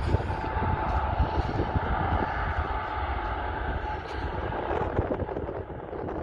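Jet airliner's engines running at a distance, with a steady whine that fades over the last couple of seconds. Wind buffets the microphone with a low rumble.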